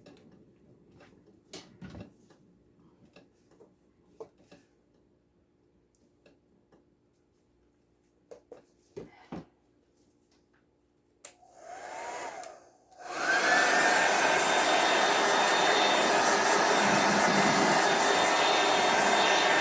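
A few faint clicks and taps, then about two-thirds of the way in a hair dryer switches on after a brief blip and runs steadily on a loud, even rush of air, its motor whine rising as it spins up, blowing wet acrylic paint across the surface.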